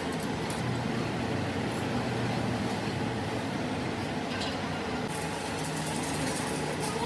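Steady mechanical rumble with a low hum and a few faint clicks.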